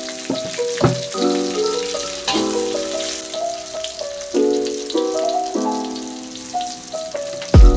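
Shallots, chillies and tomato frying in a little oil in an aluminium wok, a steady sizzle with the steel spatula scraping the pan now and then, under melodic background music. A loud low thump near the end.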